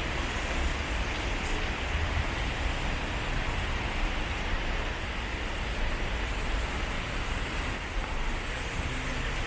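Steady road traffic noise with a deep rumble.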